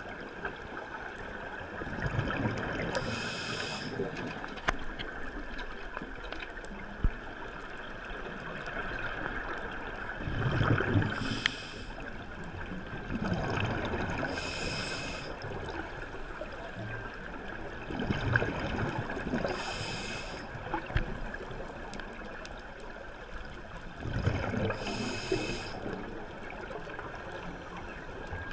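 Scuba diver breathing through a regulator underwater: five breaths several seconds apart, each an inhale hiss and a gurgling rush of exhaled bubbles, over a steady water hiss.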